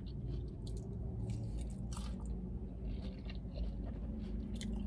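A person chewing a forkful of burrito bowl with rice, chicken and lettuce, with scattered small wet clicks and crunches from the mouth over a steady low hum.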